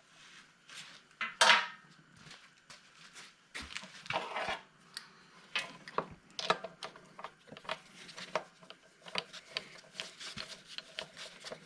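Metal hand tools clinking and tapping in a string of small, irregular knocks, some with a short ring, while a lawnmower's spark plug is being removed.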